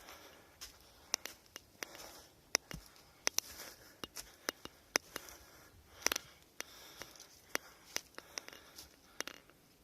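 Irregular snapping and crackling of dry twigs and leaf litter, a few sharp snaps a second, stopping just before the end.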